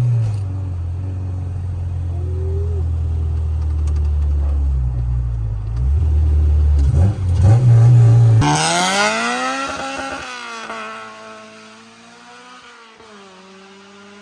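K-swapped Honda Civic's K20 engine running loud and deep, its pitch stepping up and down with the throttle. About eight seconds in, the note changes to a rising engine pitch that dips twice, like gear changes, and fades away.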